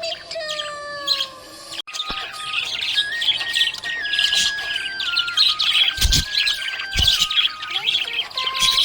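Budgerigars chirping and chattering busily: a dense run of quick, high chirps starting about two seconds in. Two low thumps come about a second apart in the second half.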